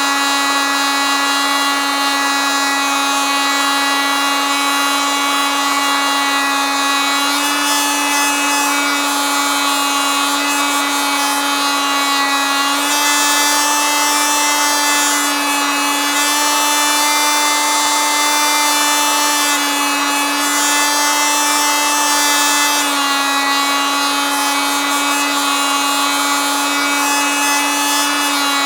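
Oscillating multitool running continuously with a loud, steady buzzing hum, its pitch shifting slightly up and down a few times.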